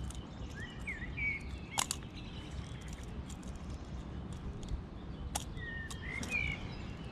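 Small birds chirping in two short bouts, over a steady low outdoor rumble. Two sharp clicks, the loudest sounds, come about two seconds in and again near the middle.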